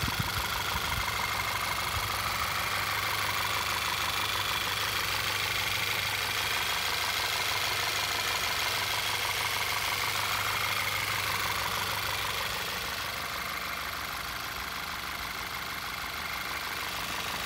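Volkswagen 2.0-litre TSI turbocharged four-cylinder idling steadily, heard close up with the hood open; a normal, healthy idle that sounds just like it should. It gets slightly fainter in the last few seconds.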